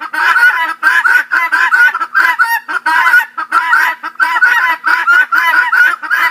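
Vulturine guineafowl calling: a rapid, even series of harsh clucking calls, about four a second.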